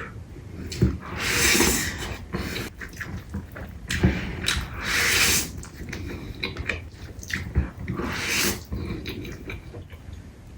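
A person eating close to the microphone: wet chewing and smacking with scattered clicks, and three longer hissing, slurping bursts about one and a half, five and eight and a half seconds in.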